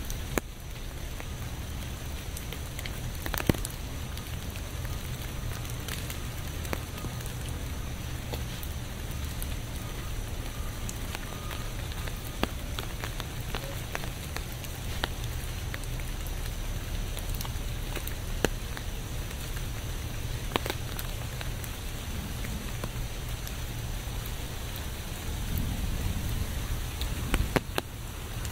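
Steady rain falling, with single louder drops tapping sharply every few seconds. A low rumble swells briefly near the end.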